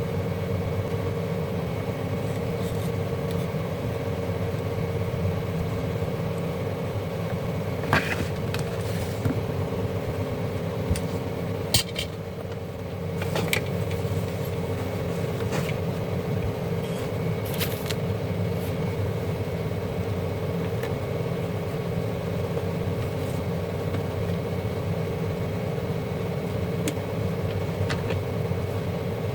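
Steady low mechanical hum with a few sharp clicks and knocks scattered through the first half.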